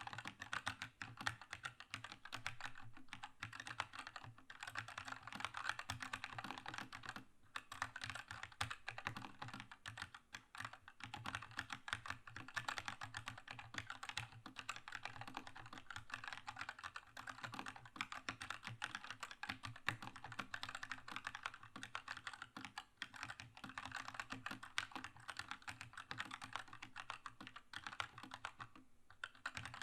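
Keychron K2 mechanical keyboard with linear red switches being typed on fast and continuously, a dense run of keystroke clacks with a few brief pauses.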